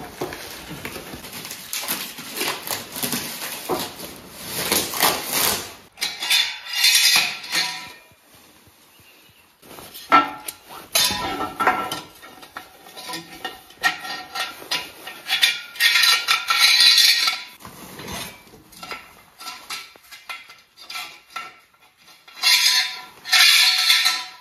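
Metal railing parts clattering and clicking as they are handled and fitted together, with several louder stretches of rattling.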